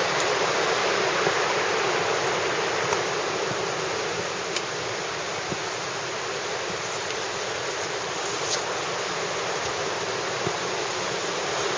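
Steady rush of flowing water, even and unbroken, with a few faint clicks.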